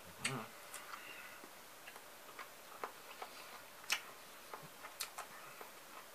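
Quiet, irregular crisp clicks and crunches of someone chewing sliced fresh cucumber salad, with a brief louder mouth sound about a quarter second in.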